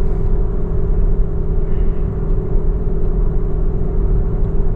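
Steady road and engine noise of a car travelling at motorway speed, heard from inside the cabin: a constant low rumble with a steady drone above it.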